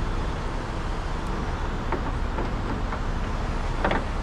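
Steady workshop background noise, a low rumble under a broad hiss, with a few light clicks and a short cluster of small knocks near the end.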